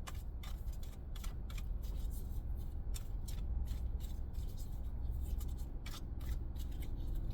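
A deck of tarot cards being shuffled by hand: a run of quick, irregular papery flicks and slides, over a steady low hum.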